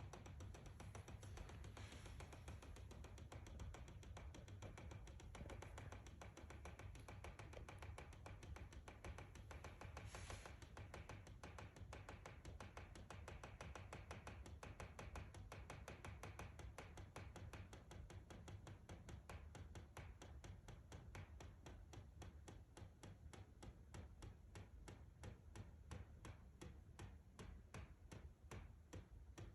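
A faint, steady ticking from inside a house wall, several even clicks a second over a low hum. Its cause is unknown.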